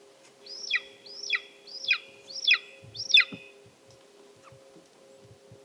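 Golden eagle calling: a series of five sharp yelps about half a second apart, each dropping steeply in pitch, the last one the loudest.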